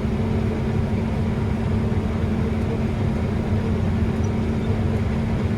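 Combine harvester running, heard from inside its cab as a steady low drone.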